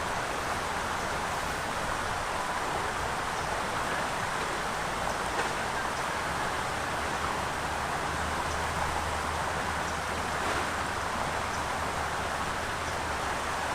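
Steady rush of running water, even and unbroken, with a faint low hum beneath it.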